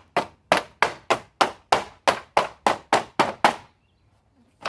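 Mallet blows beating a thin sheet-metal baking pan into shape over a wooden form: a quick, regular run of about a dozen strikes, roughly three a second, then a pause of about a second and one more strike at the end.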